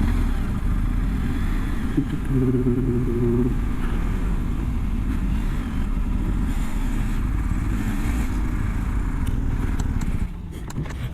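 Motorcycle engine running at low speed, with a steady low rumble. It drops in level about ten seconds in.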